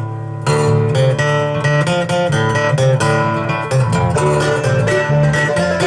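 Live band playing the instrumental opening of a country-style song, led by strummed acoustic guitar; the full band comes in about half a second in.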